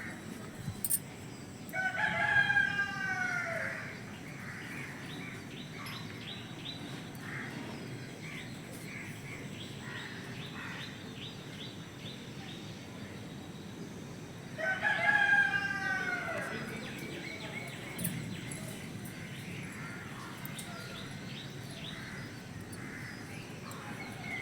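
A rooster crowing twice, each crow a long drawn-out call, about twelve seconds apart. Faint rapid high chirping between the crows.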